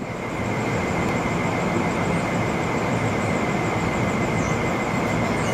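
NJ Transit commuter train of double-deck Multilevel coaches at the station platform: a steady rumble with a thin high whine over it.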